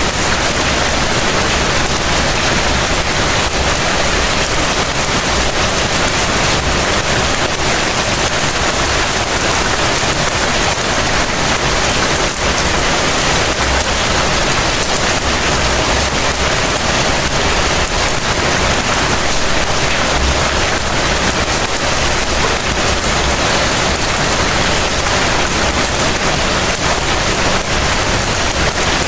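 Heavy rain falling steadily: a dense, even hiss of rainfall, with a low rumble underneath that swells now and then.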